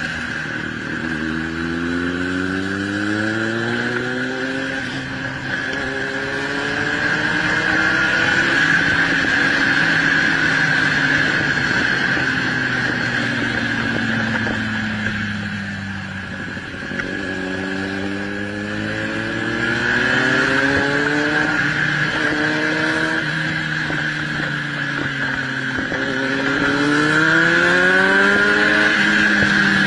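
Vehicle engine accelerating hard through several gears, rising in pitch and dropping at each shift. It eases off about halfway, then accelerates through the gears again, over a steady high hiss.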